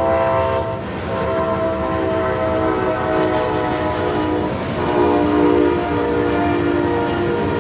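Freight locomotive's multi-chime air horn blowing, with a short break about a second in. The chord drops in pitch about five seconds in as the locomotive passes, over the rumble of the train.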